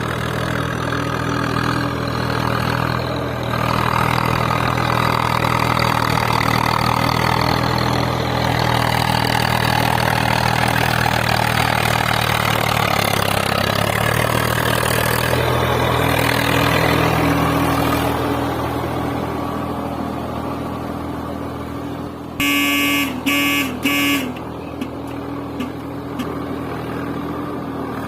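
Vehicle engine running steadily, heavier through the middle stretch, with a horn honking three short times about 22 seconds in.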